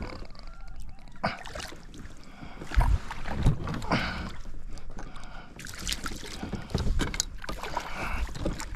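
Water splashing and gear knocking on a fishing kayak while a hooked kokanee is brought alongside. The bursts come irregularly, and a dull thump about three seconds in is the loudest.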